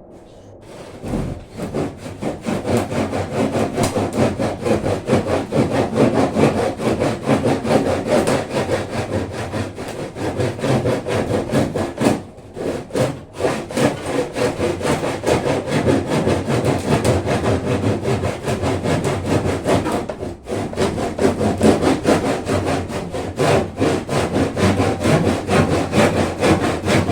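Hand saw cutting through wood in quick back-and-forth strokes, pausing briefly about twelve and twenty seconds in.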